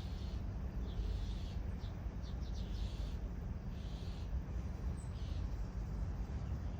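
Outdoor ambience: short high bird chirps recurring every second or so, with a quick cluster of them about two to three seconds in, over a steady low rumble.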